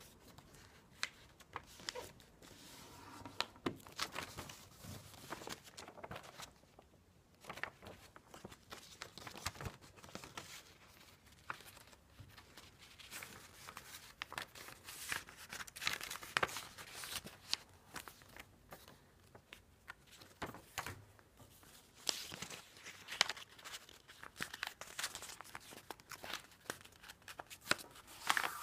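A sheet of paper being handled, folded and creased, with irregular crinkling and rustling and short sharp crackles as the folds are pressed.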